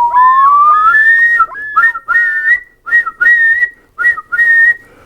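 A whistled tune: clear pure notes, some sliding up, in short phrases with brief gaps.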